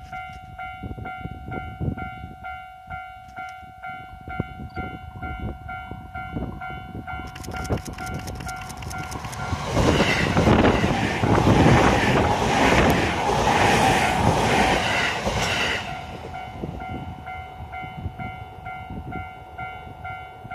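JR East 209 series electric train (the B.B.BASE bicycle set) approaching and passing close by: wheel-on-rail clatter builds from about seven seconds, is loudest from about ten to sixteen seconds, then fades as it moves away. A steady ringing tone sounds throughout.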